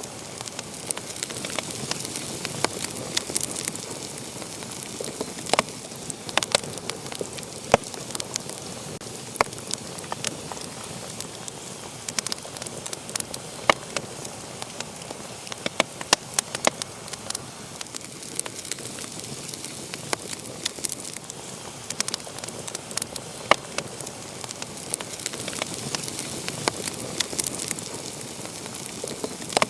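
Wood fire burning in a fireplace, crackling and popping with many sharp, irregular snaps over a steady hiss.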